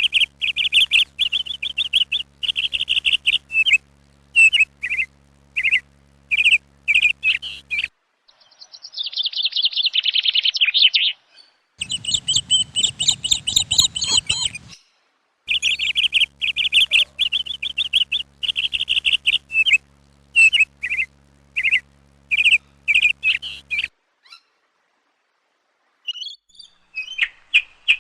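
Parrots chirping in runs of short, quick, high chirps. About a third of the way in there is a fast trill, then a harsher, noisier call. The sound stops briefly twice and starts again.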